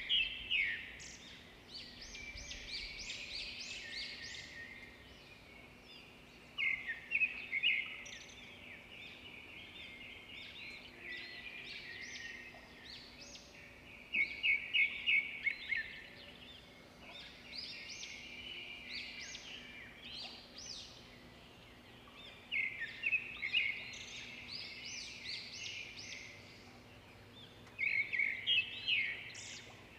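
Birds chirping: a burst of rapid high chirps every six to eight seconds, with quieter twittering in between.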